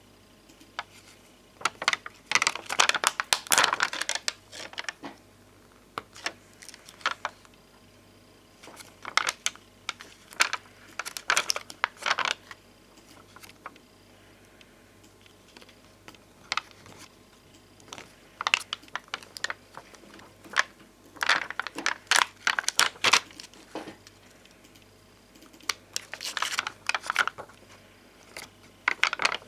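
Puffy glossy bonbon drop stickers and ohajiki-style stickers handled close to the microphone: clusters of crisp clicks and crinkly crackles of plastic sticker sheets, a second or two at a time, with short pauses between.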